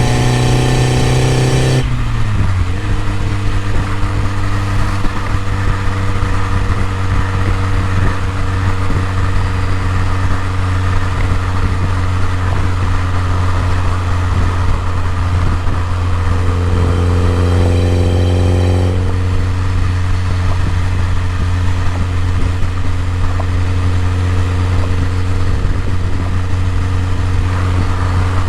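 BMW E30 M3's four-cylinder engine held at raised revs, then dropping to a steady idle about two seconds in. Past the middle a second, higher engine note joins for a few seconds, then fades.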